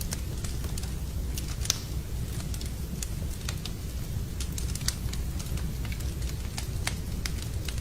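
Wood fire burning in a fireplace, crackling with irregular sharp pops over a steady low rumble. Two louder pops come about two and five seconds in.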